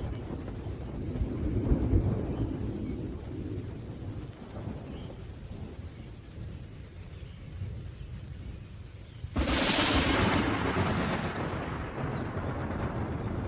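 Thunderstorm with rain: rolling thunder rumbles and slowly dies away, then a sudden sharp thunderclap breaks about nine seconds in and rumbles on, fading.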